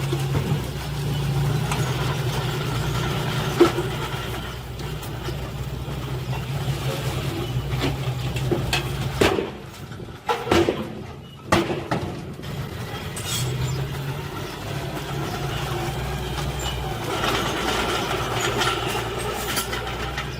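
Heavy diesel construction machinery running steadily. Its note drops for a few seconds near the middle, where several sharp knocks are heard, then the engine picks up again.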